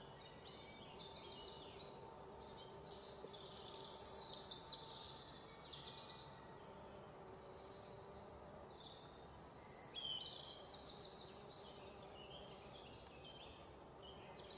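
Outdoor birds chirping, with repeated high, quick trills, over a faint steady background hum.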